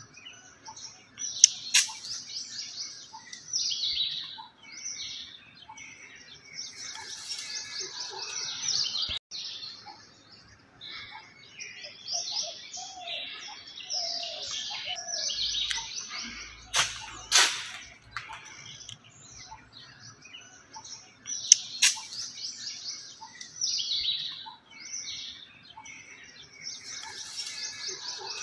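Wild birds singing: quick runs of high chirping notes repeated every few seconds, with a few sharp clicks in between.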